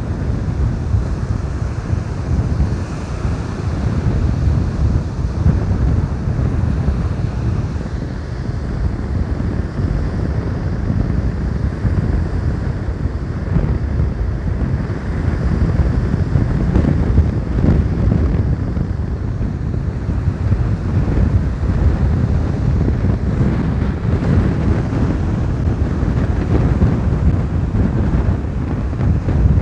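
Strong wind buffeting the microphone in a loud, gusting low rumble, over the surf of a stormy sea.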